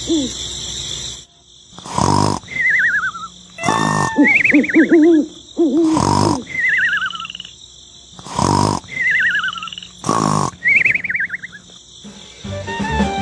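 Hooting animal calls and falling, warbling whistle-like chirps, punctuated by five sharp thumps about two seconds apart. Plucked-string music starts near the end.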